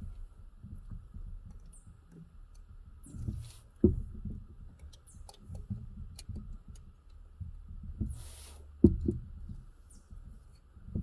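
Scattered knocks and clicks of tools and parts being handled during fuel line work on a car. There are two louder knocks, about four and nine seconds in, and a short hiss just after eight seconds.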